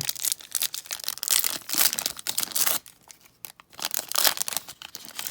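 Baseball card pack wrapper being torn open and crinkled by hand: a dense crackle for nearly three seconds, then a shorter burst about four seconds in.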